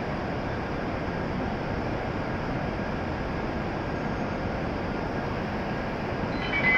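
Steady hum of an E7 series Shinkansen train standing at the platform with its doors open. Near the end, a chiming platform departure melody starts.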